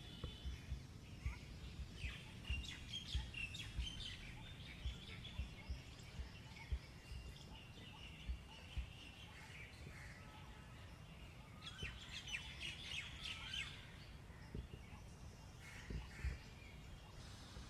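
Small birds chirping and calling in quick, high twittering runs, busiest at the start and again about two-thirds of the way in, over scattered low thumps.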